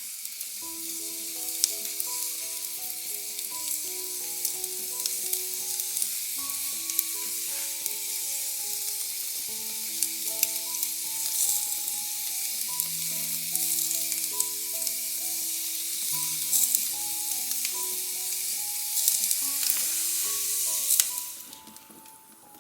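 Food sizzling and crackling as it fries in a hot pan, a steady hiss dotted with sharp pops that cuts off near the end. Soft background music plays underneath.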